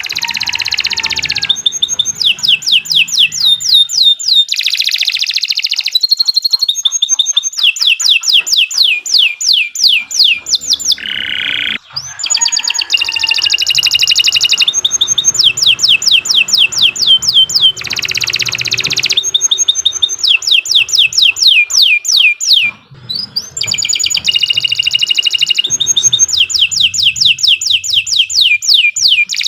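Domestic canary singing a long, continuous song: fast series of repeated, sharply sweeping notes alternating with buzzy rolled trills, with only brief pauses between phrases.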